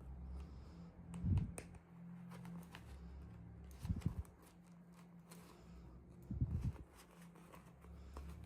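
Hands unboxing small toys: light clicks and rustles of packaging and small plastic pieces, with three dull thumps about two and a half seconds apart, over a low steady hum.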